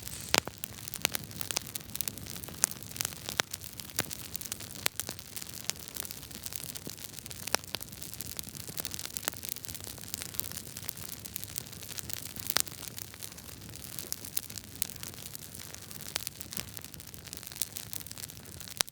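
Wood fire crackling in a fireplace: frequent sharp pops and snaps, a few of them much louder, over a steady low rumble of the burning logs.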